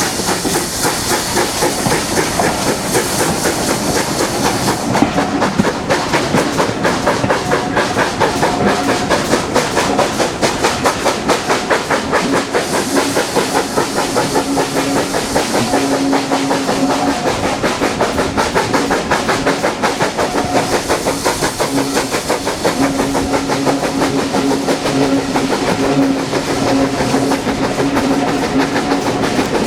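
Steam train running, with a fast regular beat and hissing steam, the hiss strongest for the first few seconds; a steady low tone comes and goes in the second half.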